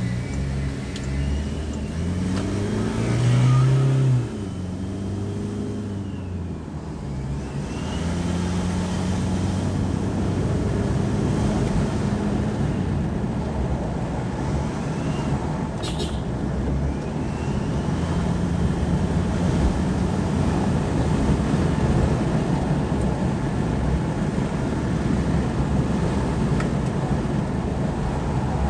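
2020 Toyota Hilux turbodiesel accelerating with its stock turbo whistling as it spools, the whistle rising and falling over the engine a few times. The engine climbs in pitch to a loud peak about four seconds in, drops off suddenly, then runs on steadily with road noise.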